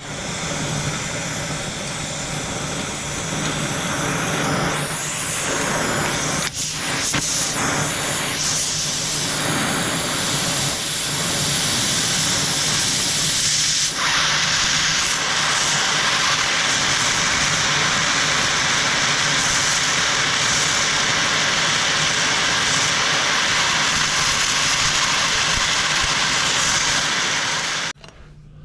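Gas torch flame hissing steadily, heating a track chain pin to free it. It grows louder and harsher about halfway through and cuts off suddenly near the end.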